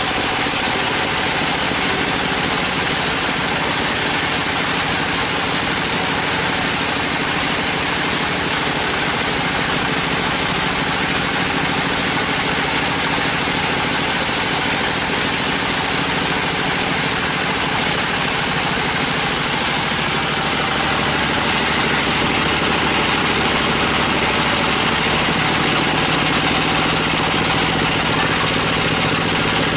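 Sawmill machinery running steadily: an engine drone under a loud continuous hiss, with the engine note shifting slightly about two-thirds of the way through.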